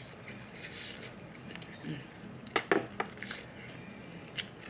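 Sounds of eating a hard-shell taco: a few sharp crunches and clicks, a cluster about two and a half seconds in and one more near the end.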